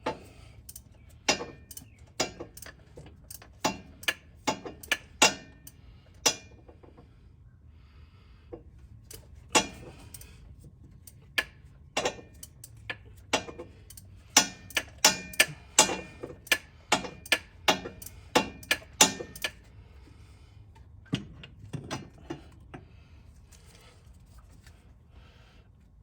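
Hand tools clinking and clicking against metal: sharp, ringing clicks that come irregularly, often one to three a second, with a lull about seven seconds in and only a few after about twenty seconds.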